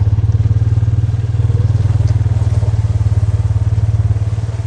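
A vehicle engine running steadily at low speed, with a fast, even pulse.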